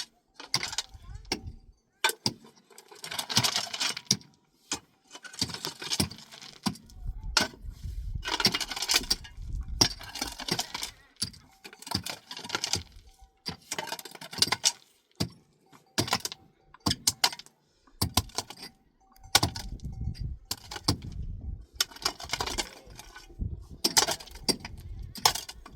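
Irregular clinks, knocks and rustling from objects being handled, with longer stretches of scraping or shuffling noise in between.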